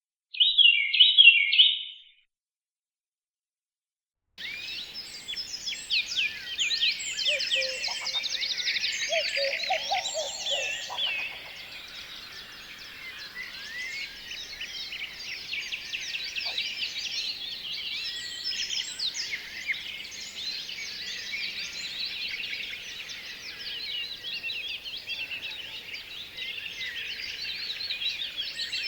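A loud short burst of chirping, a pause of about two seconds, then a dense chorus of many small birds chirping and twittering at once, busiest in the first several seconds and then steady.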